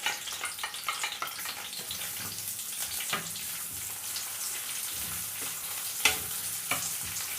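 Onions sizzling and crackling as they fry in a pan, with a few sharp knocks of a utensil, the loudest about six seconds in.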